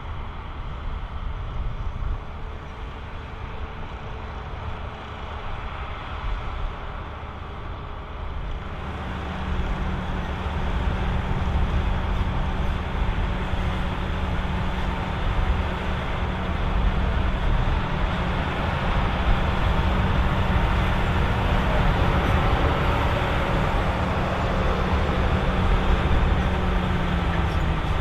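John Deere 7230R tractor running steadily while pulling an AVR Spirit 9200 potato harvester, with a steady engine drone and the harvester's working noise. The sound gets louder about a third of the way in, and the engine note dips slightly near the end.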